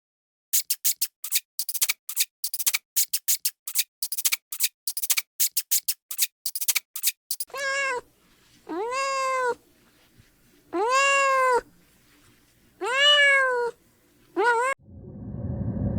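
An animal makes rapid, irregular sharp clicks for about seven seconds, then gives five meow-like calls, each rising and then falling in pitch, the last one short.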